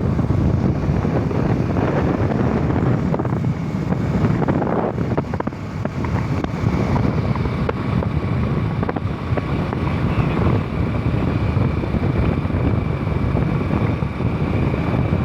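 Loud, steady wind noise rumbling on the microphone, with a faint thin whine in the second half.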